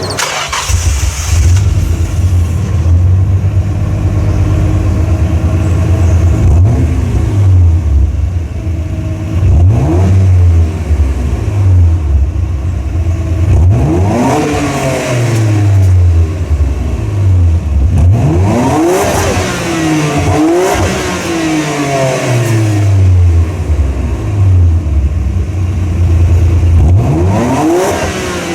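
Nissan R33 Skyline GT-R's twin-turbo straight-six (RB26DETT) through a REIMAX all-stainless exhaust system, idling and then revved several times, each rev rising sharply and falling back to idle.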